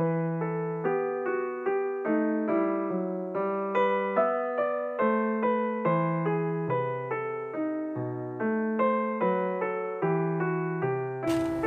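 Background piano music, a gentle tune of evenly paced single notes over a low accompaniment.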